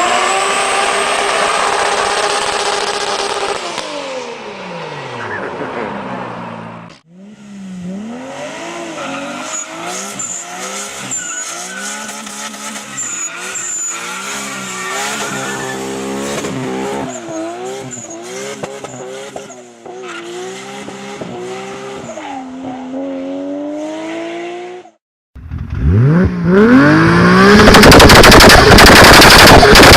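A turbocharged Toyota Supra engine heard in several separate takes. First the revs fall away. Then a long stretch of revs rising and falling over and over. Near the end a much louder hard pull with the revs climbing, over rapid sharp pops from the exhaust.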